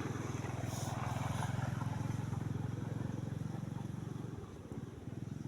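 A small engine running steadily with a fast, even beat, a little louder in the middle and dropping back about four and a half seconds in.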